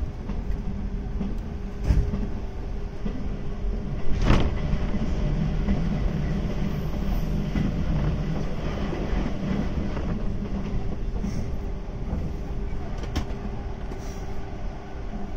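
JNR 185 series electric multiple unit running, a continuous rumble of wheels and running gear with a steady hum. Two sharp knocks come about two seconds and about four seconds in.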